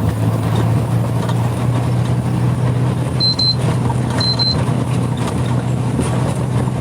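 Steady engine hum and road noise of a vehicle driving along a street, with two pairs of short high-pitched beeps about three and four seconds in.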